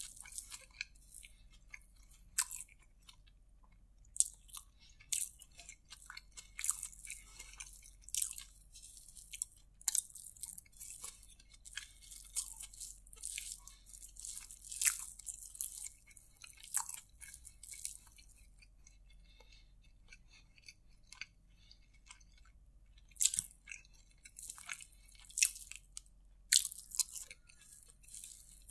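Close-miked chewing of a person eating a rice dish by hand: a dense run of irregular wet clicks and crackles. It goes quieter for a few seconds about two-thirds of the way through, then picks up again.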